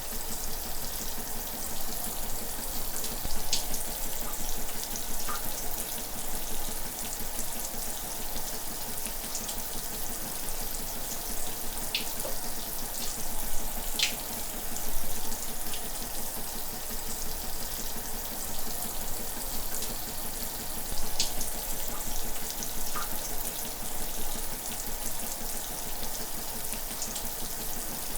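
Running shower: a steady spray of water hissing down, with small splashes and drips here and there.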